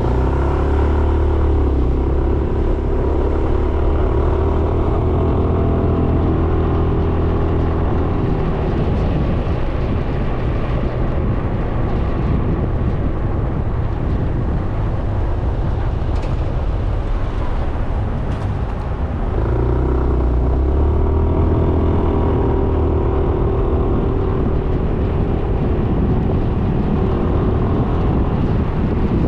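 Suzuki Burgman 400 scooter's single-cylinder engine running while riding, with wind rushing over the microphone. The engine note is steady for the first third and again from about two-thirds in, while the wind noise takes over in between.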